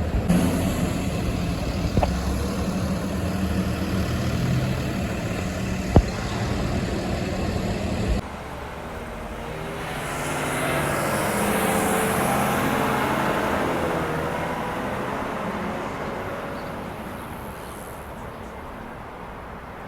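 A motor vehicle engine running steadily with a low hum. After a sudden cut about eight seconds in, a passing vehicle swells and then fades away, its pitch falling as it goes by.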